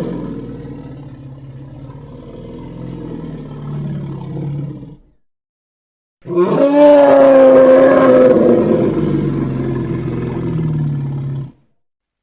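Custom-made creature roar sound effects for a sea rhinoceros. The first roar tails off into a low growl and stops about five seconds in. After a second of dead silence, a second loud roar starts on a held, slowly falling pitch, sinks into a low growl, and cuts off sharply shortly before the end.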